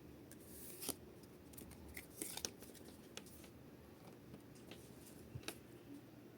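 Faint handling noise of trading cards and their packaging: a few sharp clicks and short rustles, clustered in brief bursts.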